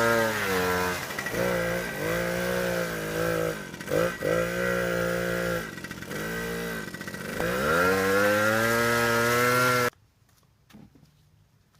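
Pit bike engine revved hard during a burnout, held high, dropping and climbing again several times, then rising once more before cutting off suddenly near the end.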